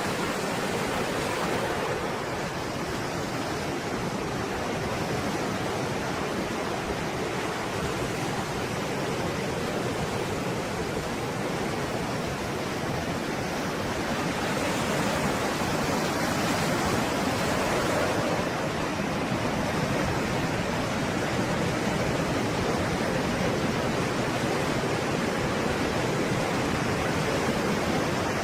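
Stormy sea waves breaking and washing continuously in a dense, steady rush of surf, growing slightly louder about halfway through.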